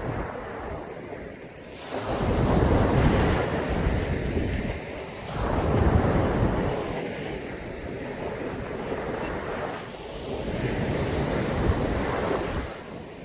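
Caribbean sea waves breaking on a beach: three surges of surf wash in, about 2, 5 and 10 seconds in, each fading back between, with wind on the microphone.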